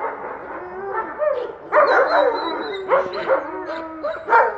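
Dogs barking repeatedly in short bursts, with whining between the barks.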